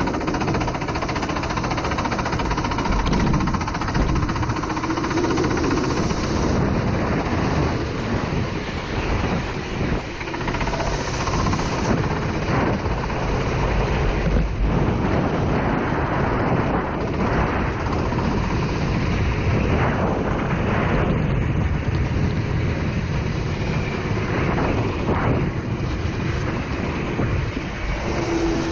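Racing kart's four-stroke engine running, with a dense hiss of wind and rain spray throughout and a few brief rises in pitch.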